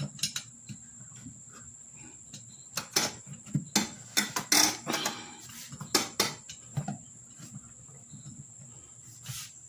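Irregular knocks, clicks and rubbery scrapes as a rubber inner tube and its valve stem are worked into a riding-lawnmower tire and wheel rim, with a steady high thin whine behind them.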